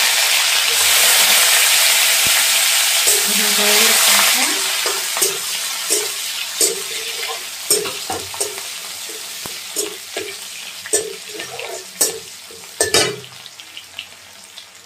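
Food frying in hot oil in a steel wok: a loud sizzle right after it is dropped in, slowly dying down. From about five seconds in, a metal spatula scrapes and clinks against the wok as the food is stirred.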